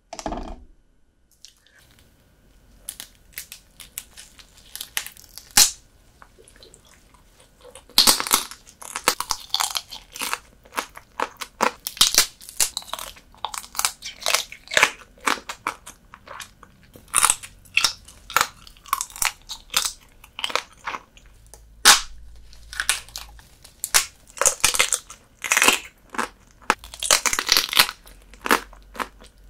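Close-miked eating sounds of soy-sauce-marinated horsehair crab: crunchy bites and chewing, a few sharp clicks at first, then a dense run of crisp crunches from about a quarter of the way in.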